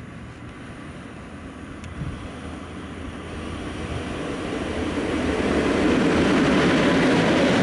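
A train approaching, its running noise growing steadily louder.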